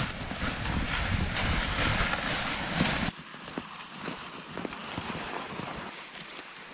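Footsteps with wind buffeting the microphone in a low rumble. About three seconds in the sound cuts off abruptly to quieter steps and a faint hiss.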